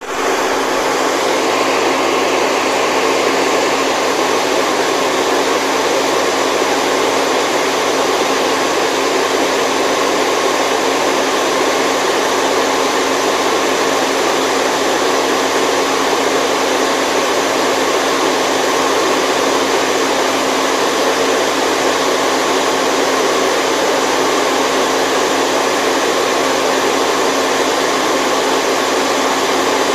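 Steady white noise for a baby's sleep: an even, unchanging hiss with little bass.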